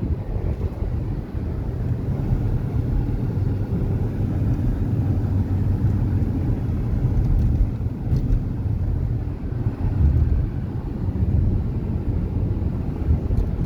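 Steady low rumble of a car in motion: road and wind noise with no distinct tones.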